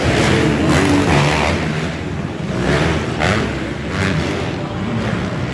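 Motocross dirt bike engines revving, their pitch rising and falling with the throttle.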